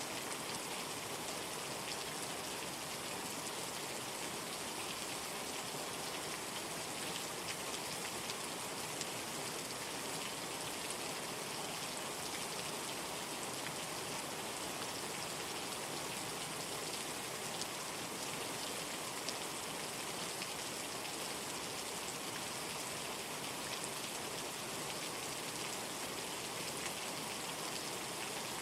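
Steady rainfall: an even hiss of rain with fine, scattered drop ticks, unchanging throughout.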